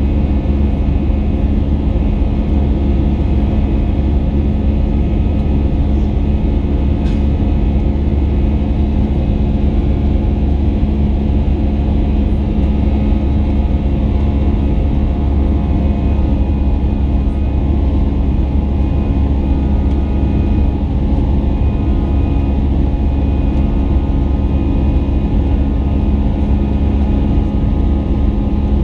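Airbus A320 cabin noise from inside the cabin: the CFM engines and the airflow make a steady, loud rumble with a low hum and several constant tones that do not change.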